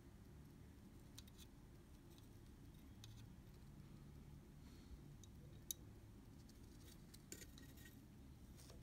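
Near silence with a low steady hum, broken by a few faint, sharp clicks and ticks of small metal tools and parts being handled during camera shutter repair, one distinct click past the middle and a small cluster near the end.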